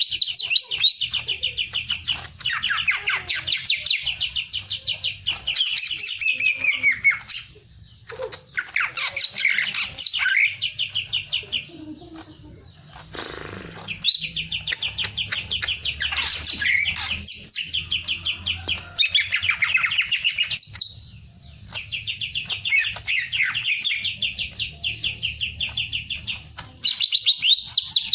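A songbird singing long, fast trilling phrases of rapidly repeated high notes, each run lasting several seconds with short pauses between. A brief hiss comes about halfway through.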